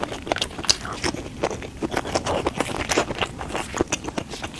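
Close-miked eating: chewing and lip-smacking, a dense run of quick wet clicks and smacks.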